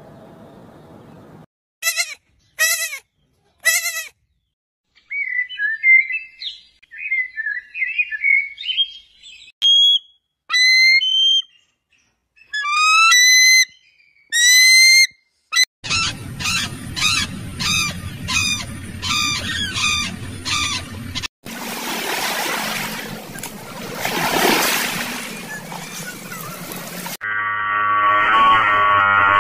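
A string of bird calls: three short sharp calls, a run of quick chirping, then repeated high piping calls. A stretch of rushing noise follows, and guitar music comes in near the end.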